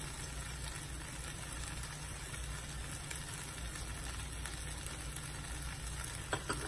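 Onion, tomato and green chilli frying in oil in a pan, a steady sizzle with spice powders just added on top. Two small clicks come near the end.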